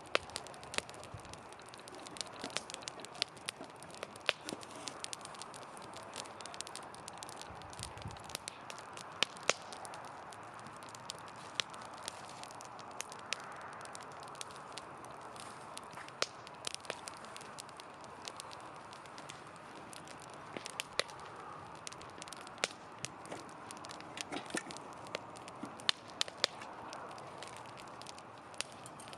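Wood campfire crackling: frequent irregular sharp pops and snaps over a steady soft hiss of burning.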